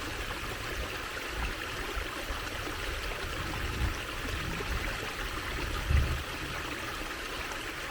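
Water trickling and running steadily, like a small stream. A brief low thump sounds about six seconds in.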